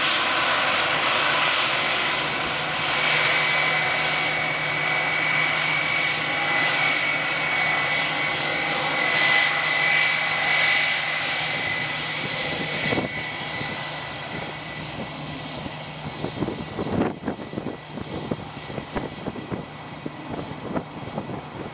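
Airbus A321-231's twin IAE V2500 turbofans whining steadily as the airliner taxis, with a high tone over a jet hiss; the engine sound fades about two thirds of the way in. Gusty wind buffets the microphone after that.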